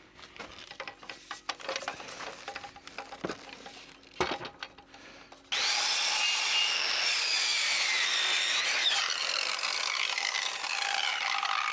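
Light clicks and rubbing from handling timber and tools, then about halfway in a power saw starts abruptly and cuts steadily through timber, its whine slowly dropping in pitch under load.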